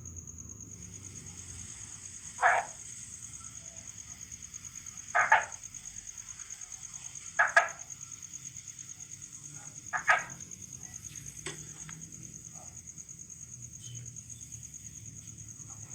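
Crickets trilling steadily at a high pitch, with a frog calling loudly four times at roughly two-and-a-half-second intervals and a few fainter calls later.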